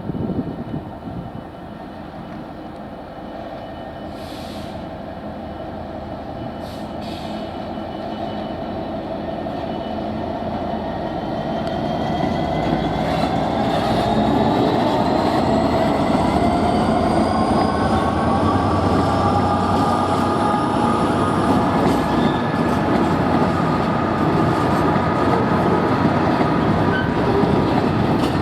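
Diesel locomotive approaching and accelerating. Its engine sound grows steadily louder over the first half, and a whine rises slowly in pitch as it picks up speed.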